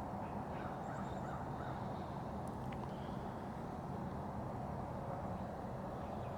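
Steady low background rumble of an outdoor city neighbourhood, with a few faint bird calls in the first three seconds.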